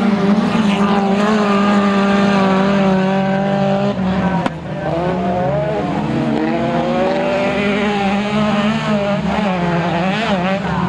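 Autocross race car engine running hard at high revs, held steady for about four seconds, then a sharp click and a brief drop before the pitch swings up and down again as it comes off and back on the throttle.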